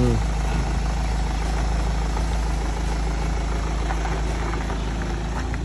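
Mahindra Thar SUV engine idling steadily as the vehicle creeps forward at low speed.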